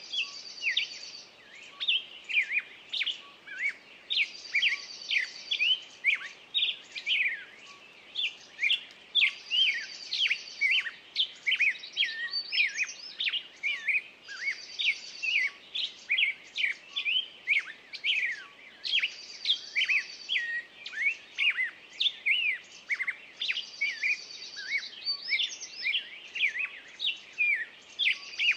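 Several birds chirping and calling in quick, overlapping short notes, with a higher buzzy trill repeating about every four and a half seconds.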